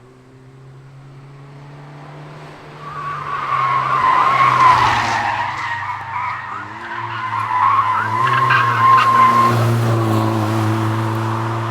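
Nissan March Nismo hill-climb car driven hard, its engine running under load while the tyres squeal through corners. It grows louder about three seconds in, with two loud peaks as it comes close.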